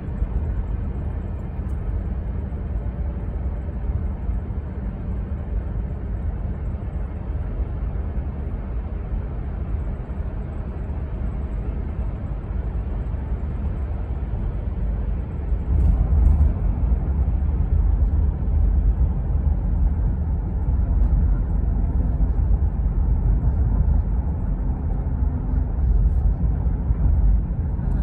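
Steady low rumble outdoors, growing louder about halfway through.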